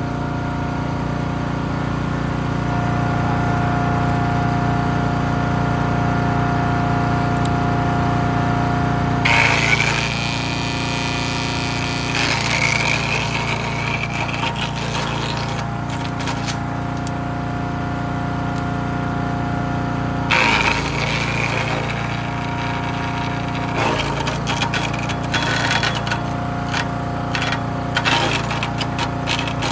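Gas-engine wood chipper shredder with a 7HP 212cc four-stroke engine running steadily, with loud bursts of cracking and crackling as wood is fed in and chipped: about a third of the way in, again near the middle, and several times near the end.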